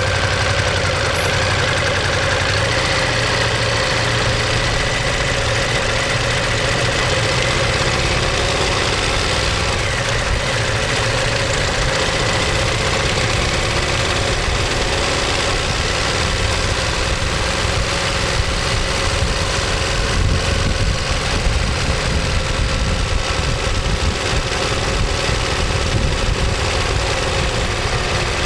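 Ducati Monster 1200S's L-twin engine running steadily, with no clear revving.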